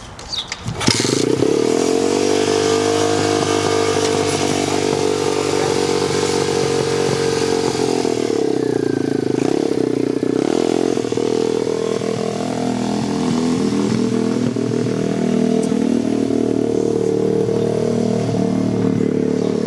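Dirt bike engine starting about a second in and running steadily, its pitch shifting up and down for a few seconds in the middle.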